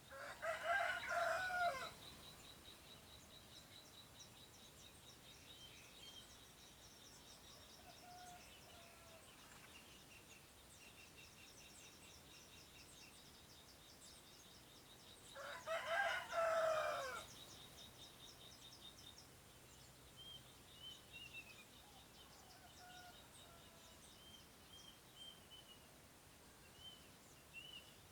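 A large bird calling loudly twice, each call about two seconds long and falling in pitch at the end, the two calls about fifteen seconds apart. Fainter short chirps of small birds and a high, thin trill run between them.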